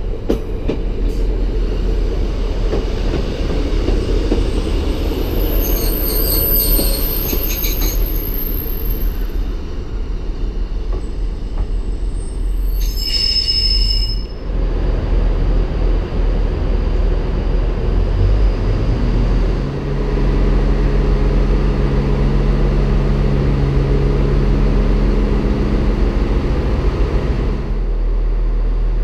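Diesel multiple unit running into a station platform, its wheels squealing in high-pitched bursts twice in the first half over a steady rumble; in the second half a steady low engine note takes over.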